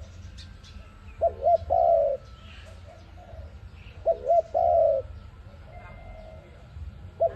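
A dove cooing in a repeated phrase: two quick short notes, then a longer held coo. The phrase comes twice, about a second and four seconds in, and starts again at the very end, over a steady low hum.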